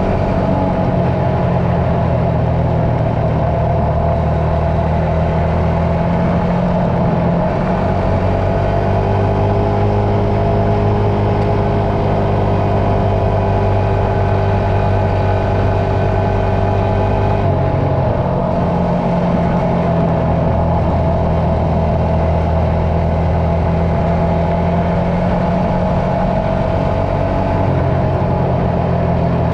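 Dirt bike engine running steadily under way, its note stepping to a new pitch three times.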